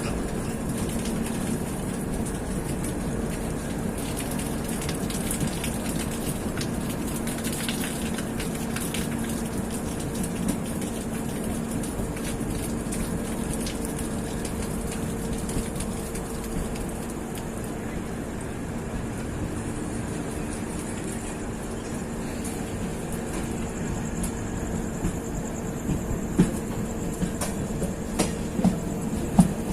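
Passenger train running along the track, heard from aboard the moving coach: a steady rumble and hum with wheel clicks over the rail joints, which come closer together and sharper near the end.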